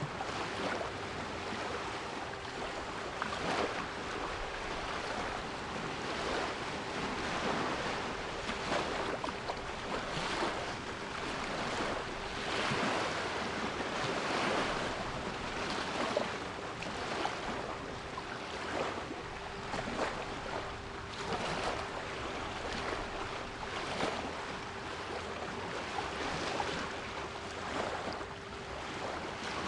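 Sea waves washing and splashing continuously, with a faint steady 396 Hz pure tone held beneath them.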